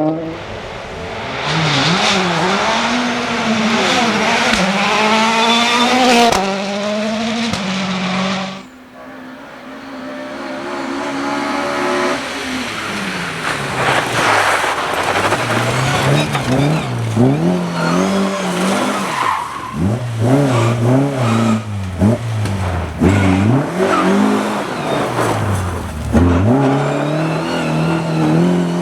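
Rally cars driven hard on a special stage: engines revving up through the gears and dropping off on lifts and shifts, again and again. A quieter pause about 8.5 s in is followed by a car approaching and revving hard to the end.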